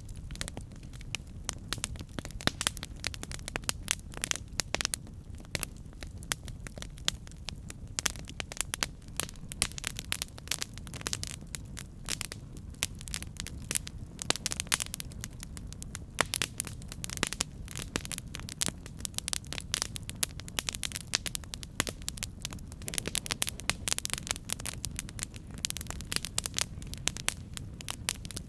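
Campfire burning, with a steady low rumble and dense, irregular crackles and pops from the burning wood.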